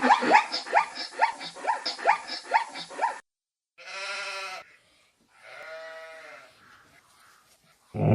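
Animal calls: a quick run of about ten short yelps, each rising in pitch, then two longer, lower calls.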